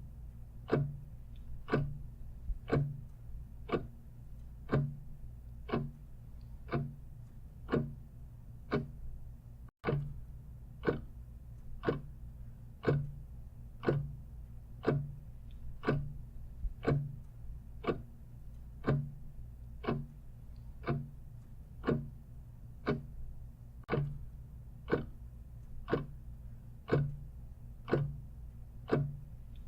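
Clock ticking steadily, about once a second, over a faint low hum. The audio drops out for a split second about a third of the way through.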